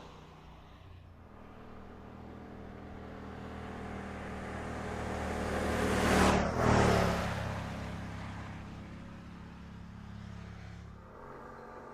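A car driving past: its engine grows louder as it approaches, is loudest about six and a half seconds in, then fades away.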